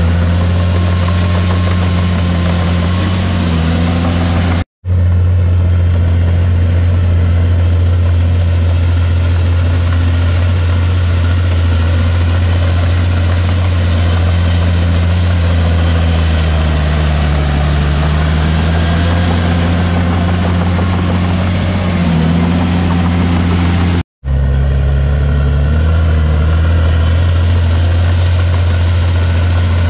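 Heavy diesel engine of a Komatsu D51PX bulldozer running steadily under work, its pitch sagging and recovering as the load changes. The sound cuts out abruptly for an instant twice.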